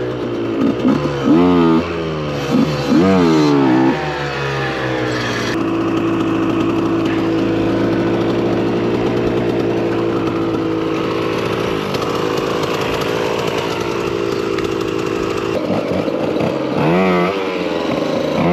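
Small two-stroke supermoto engine, onboard. It revs up and down several times in quick succession, then holds a steady high-revving note for about ten seconds, and rises and falls again near the end.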